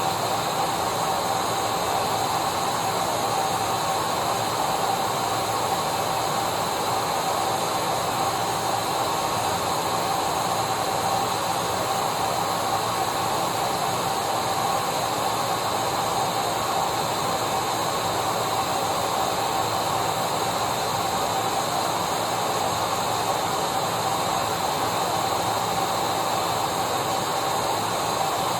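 Vacuum cleaner running steadily: an even rushing hiss with a steady whine held at one pitch, unchanging throughout.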